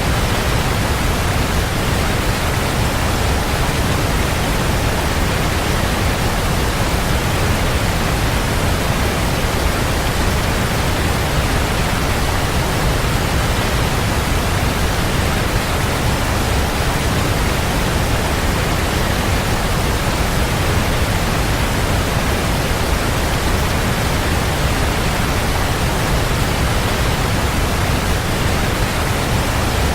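Waterfall: a steady, loud rush of falling water, even and unbroken, heaviest in the low end.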